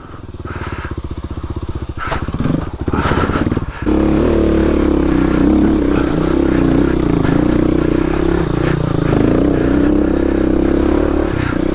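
Kawasaki KLX250S dual-sport motorcycle's single-cylinder four-stroke engine at low revs, its beat pulsing evenly. About four seconds in it gets louder and then runs steadily under throttle.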